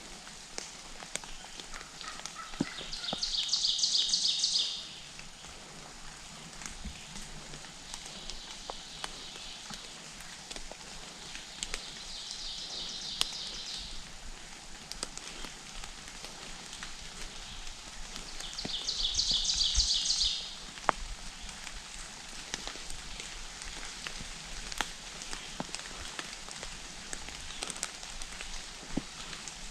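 A small songbird singing a fast, high trill about four times, each trill lasting roughly two seconds, with scattered small clicks and rustles in between.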